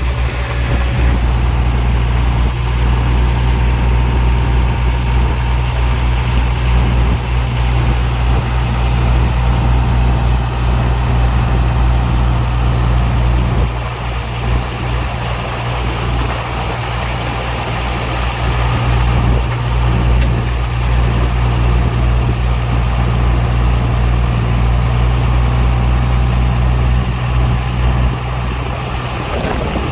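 Heavy diesel engine of earthmoving equipment running steadily with a deep drone. It eases off a little about halfway through and again near the end.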